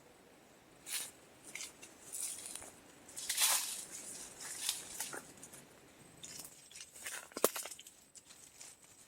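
Irregular rustling and crackling of dry leaves and brush being trodden or handled, with a sharp snap about seven and a half seconds in.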